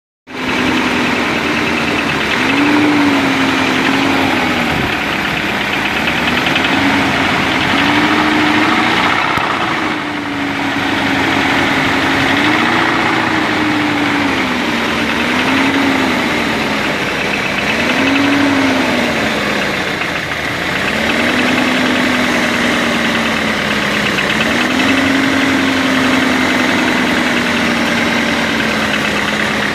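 BMW 318 E36 four-cylinder engine running, its pitch rising and falling every few seconds as the revs swell and drop, over a steady rattly clatter. This is the knock the owner wants heard.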